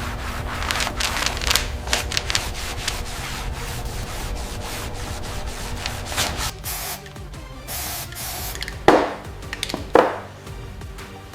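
Background music under workshop noise: a rough rubbing or sanding sound, a brief hiss about seven to eight seconds in, and two sharp hits near the end, about a second apart.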